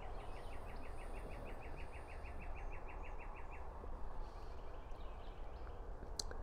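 A songbird trilling outside: a fast run of repeated high chirps, about seven a second, lasting some three and a half seconds, over a faint steady outdoor hum. A short sharp high sound comes near the end.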